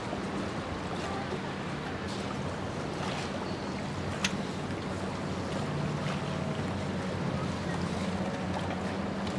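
A ship underway: a steady low machinery hum under water and wind noise, with one sharp click about four seconds in.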